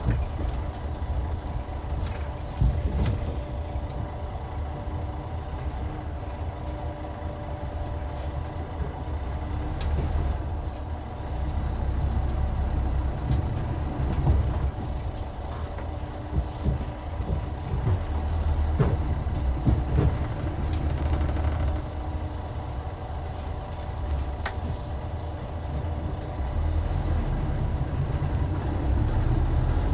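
Hyundai Universe coach's D6CC straight-six diesel engine running under way with a steady low drone, growing louder about a third of the way in and again near the end, with scattered clicks and rattles.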